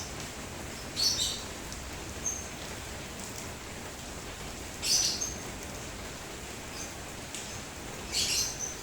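Steady rain falling, with birds chirping: short high calls about a second in, near two seconds, around five seconds, and a cluster of calls near the end.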